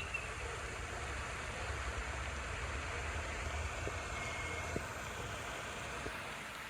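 Lake fountain's spray splashing steadily, over a low rumble.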